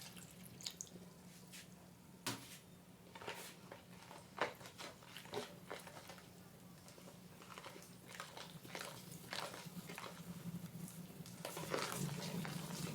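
Scattered light clicks and knocks of kitchen handling, such as utensils and containers, over a faint steady low hum.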